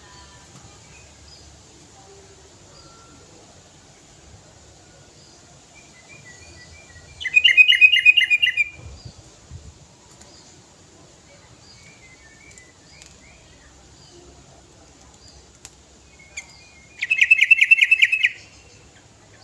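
Sooty-headed bulbul (kutilang) singing: two loud bursts of rapid, quickly repeated notes roughly ten seconds apart, with soft scattered chirps between.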